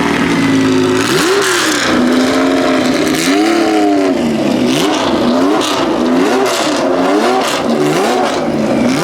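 A supercar engine revved over and over in quick blips, its pitch rising and falling each time. A first rev comes about a second and a half in, then a faster run of revs from about three seconds on.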